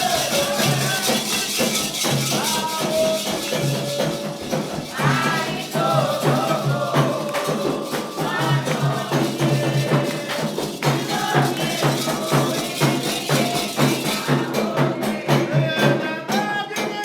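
Candomblé sacred music: voices singing a chant over a steady drum rhythm with rattles and shakers keeping time.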